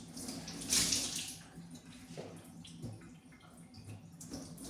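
Running water splashing unevenly, as from a tap, with a louder gush about a second in.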